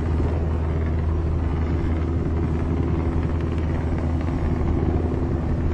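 A steady, deep engine drone that holds level without revving.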